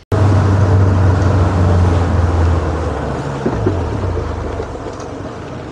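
Boat engine running under way, a steady low drone over wind and water noise; about three and a half seconds in its pitch drops as it is throttled back, and the sound eases off.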